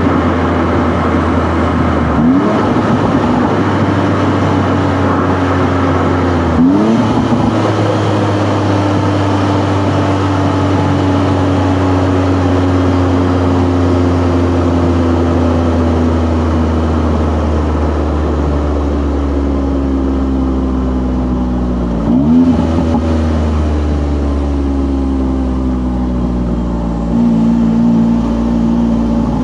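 Honda S660's small turbocharged three-cylinder engine heard from inside the cabin while the car slows down: the revs jump up sharply on downshifts about two, seven and twenty-two seconds in, and the engine note sinks slowly between them, over steady low road rumble.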